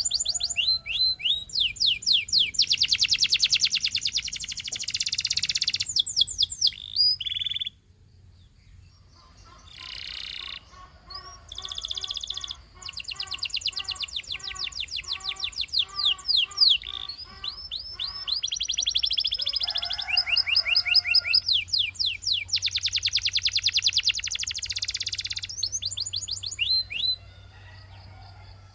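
Canary singing a long song of rapid trills and rolls at several pitches, with a short pause about eight seconds in.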